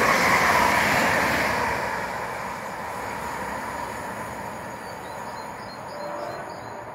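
Stadler Flirt electric multiple unit passing at speed, then moving away. The wheel-and-rail noise is loud at first and fades over the first few seconds to a low steady rumble as the train recedes.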